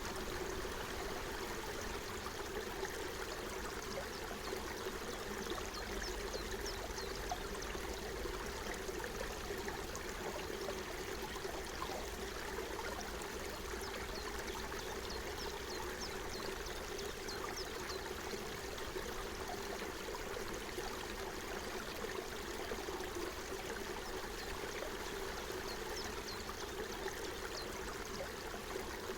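Forest stream babbling steadily, with short faint high ticks here and there above the running water.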